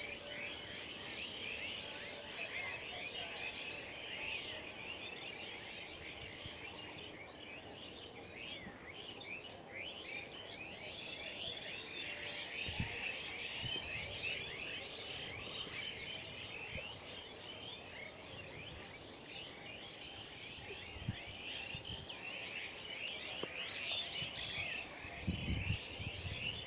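A dense chorus of many birds chirping and calling over one another without a break, with a few dull low thumps about halfway through and near the end.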